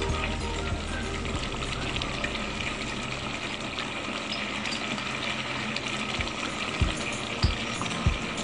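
Chicken pieces sizzling and simmering in a stainless steel pot, a steady frying hiss. A few dull knocks come near the end.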